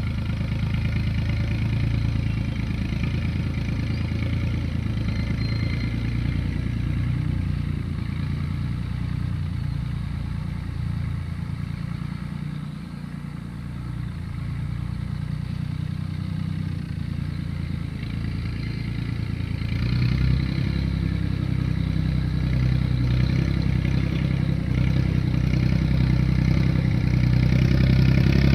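Tractor diesel engine running steadily while rolling a field. The engine note dips briefly about halfway through and comes back stronger from about two-thirds of the way in.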